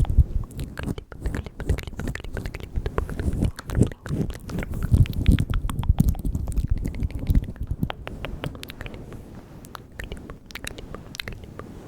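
Close-miked ASMR mouth sounds: rapid wet clicks and smacks of lips and tongue, dense for the first seven seconds or so, then sparser and quieter.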